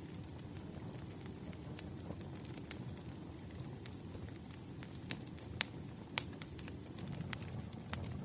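Wood fire burning logs: a steady low rumble of the flames with irregular crackles and sharp pops, a few louder snaps in the second half. A faint thin high whine runs through the first half.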